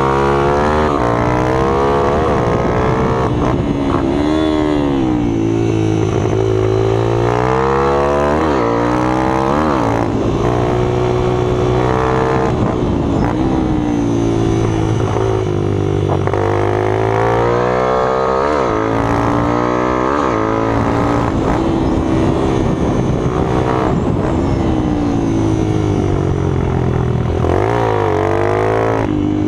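Several minibike engines running hard, their pitch rising and falling over and over as the riders open up and back off the throttle. The engine notes overlap throughout.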